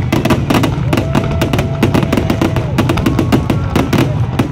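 Dense, rapid barrage of aerial firework shell bursts, many bangs a second with no break, as in a display's finale. A held tone comes in about a second in and fades out near the middle.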